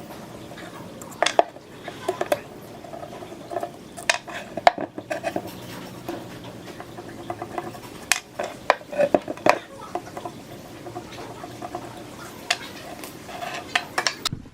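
Metal parts of an old ceiling fan clinking and knocking together as they are handled, irregular sharp clanks, some with a brief ring.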